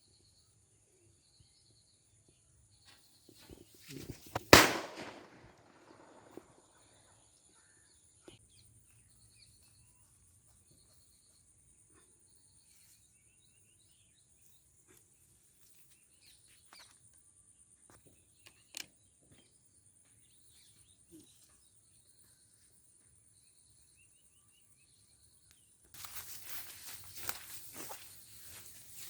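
A firecracker bursts with one loud bang about four and a half seconds in, after a few small crackles. A crackling hiss starts near the end, running into the next cracker. A steady high whine and faint chirps sound in between.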